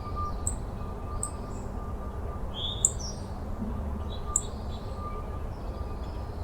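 A bird repeating a short, high chirp about once a second, over a steady low rumble.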